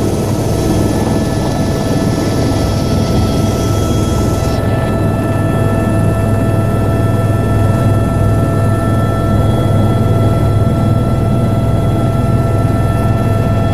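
Helicopter running steadily: a heavy low rumble under a constant high turbine whine made of several steady tones. A high hiss above it drops away about four and a half seconds in.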